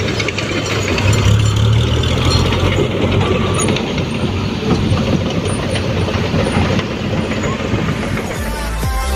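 Fuso dump truck's diesel engine running, a steady low hum under dense mechanical clatter and noise. Electronic music comes in near the end.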